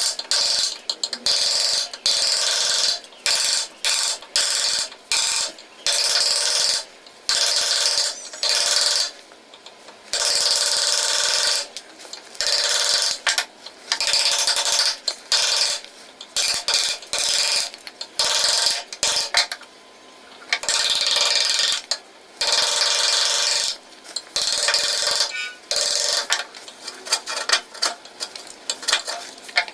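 A hand tool scraping across wood in repeated, irregular strokes, each from a fraction of a second to about a second and a half long, with short pauses between them.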